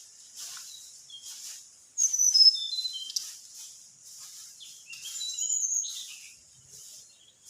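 Small songbird calling in quick series of high chirping, falling whistled notes, loudest in a burst about two seconds in and again around five seconds in, over a repeated high hiss.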